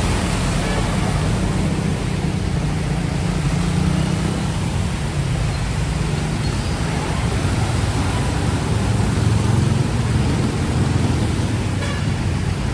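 Steady city street traffic: vehicle engines rumbling low and continuous under a wash of road noise.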